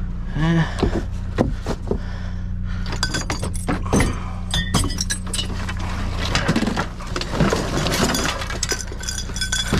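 Hard junk being handled and shifted about in a dumpster: a dense run of clinks and knocks, some ringing briefly like glass or metal, getting busier about three seconds in.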